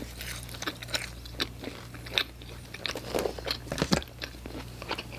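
Close-miked chewing of pizza topped with hot Cheetos, with irregular crunches and wet mouth clicks.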